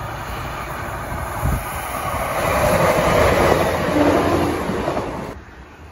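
Diesel multiple-unit passenger train approaching and passing beneath, its engine and wheel noise growing to a peak about three to four seconds in. A low thump comes about a second and a half in, and the sound cuts off suddenly near the end.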